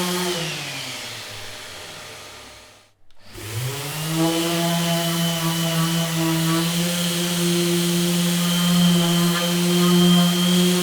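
A handheld electric power tool's motor running steadily, switched off so it winds down in pitch to a stop about three seconds in, then switched back on and spinning up quickly to full speed again.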